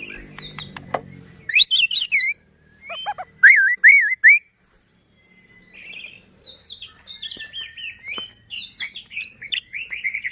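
White-rumped shama (murai batu) singing a varied song of loud, clear whistled notes and quick chattering phrases, with a pause of about a second midway.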